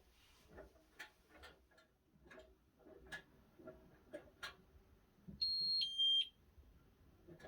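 Miele W1 washing machine's electronic signal beep: a higher tone then a lower tone, about half a second each, about five and a half seconds in. Light clicks and knocks come and go throughout.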